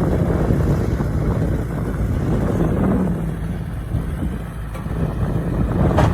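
Heavy diesel engine of earthmoving machinery running with a steady low rumble, easing a little about two-thirds of the way through and picking up again near the end.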